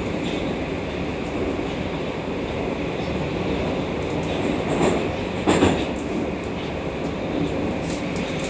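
Moscow metro Oka (81-760/761) train running between stations: a steady rumble of wheels and running gear on the rails. Two brief louder surges come about five seconds in.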